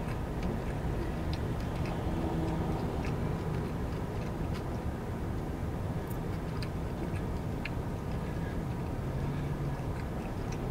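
A train rolling: a steady low rumble with irregular light clicks and ticks scattered through it.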